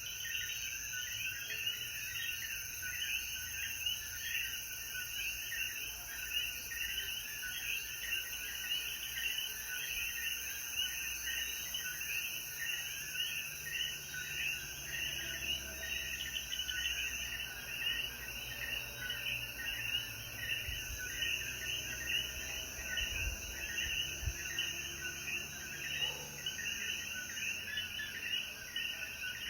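A chorus of Puerto Rican coquí frogs calling over and over, many calls overlapping, over a steady high-pitched insect hiss.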